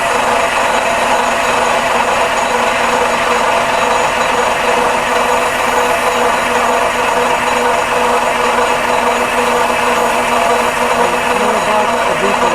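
Detroit Diesel 6V92 two-stroke V6 diesel engine running steadily in an old Ford 9000 truck, loud and even throughout.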